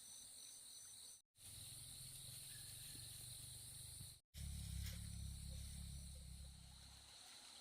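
Faint, steady trilling of insects such as crickets, with short chirping pulses at the start, broken twice by brief dropouts. A low rumble joins after the first dropout and fades out near the end.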